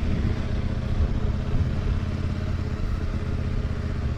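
CFMOTO 800NK motorcycle's parallel-twin engine running steadily under way at low revs, the note holding without revving, with a rush of wind over the helmet microphone.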